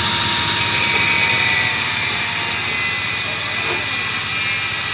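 A workshop power tool or machine running steadily: a loud, even hiss with a thin steady whine.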